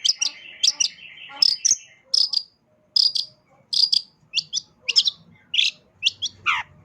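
Long-tailed shrike (cendet) singing: a quick run of short, sharp, high chirps in varied phrases, with a buzzy trill under them for about the first two seconds. It is a full, mimicry-laden song of the kind kept to tutor other songbirds.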